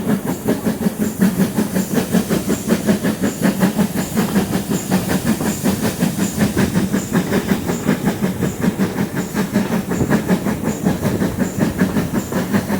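Great Western Railway steam tank locomotive working hard up a steep gradient, its exhaust beating in a rapid, even rhythm with steam hiss.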